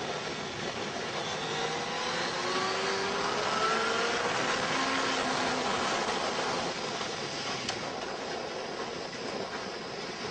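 A vehicle engine rising in pitch as it accelerates, under a steady rush of wind and road noise.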